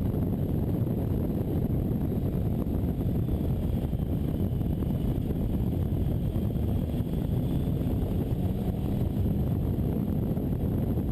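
Triumph Explorer XCA's three-cylinder engine running at a steady pace through an Arrow exhaust, mixed with heavy wind noise on the microphone. The level holds even, with no revving up or down.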